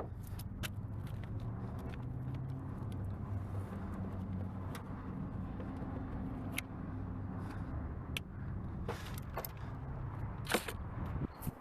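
A steady low hum like a running vehicle engine, with scattered light clicks and taps of car interior parts being handled and a sharper knock about ten and a half seconds in.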